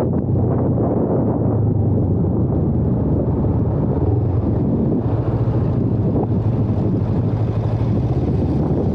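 A 1998 Kawasaki Ninja 500R's parallel-twin engine running at a steady pace while riding. Heavy wind is rushing over the microphone.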